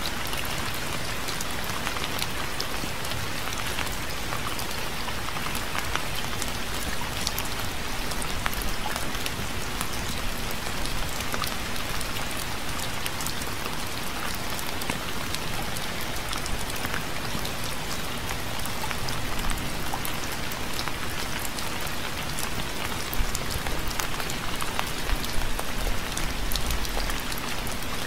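Steady rain falling, an even hiss with scattered individual drops ticking sharply close by.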